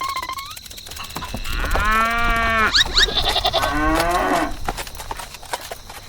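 A farm animal calling: two long calls, one about two seconds in and another about four seconds in.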